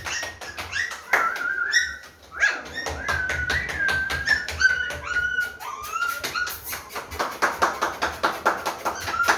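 German Spitz puppies whining in high, drawn-out whines that bend in pitch, one after another, over a fast, steady clicking or tapping.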